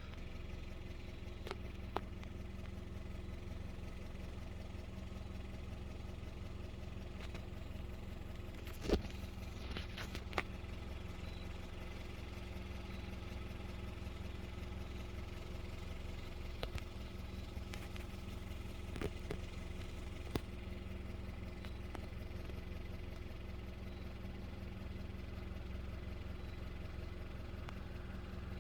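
Car engine idling: a steady low hum that runs on without change, with a few short clicks scattered through, the sharpest about nine seconds in.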